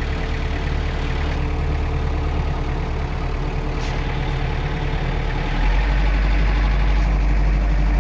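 Farm tractor's engine running steadily while driving. A little over two thirds of the way in, its low drone steps up and gets louder.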